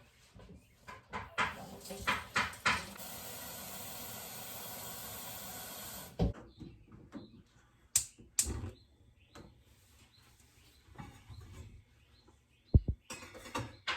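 Tap water running into a cooking pot for about three seconds, a steady hiss, with clinks and knocks of the pot being handled and set down before and after.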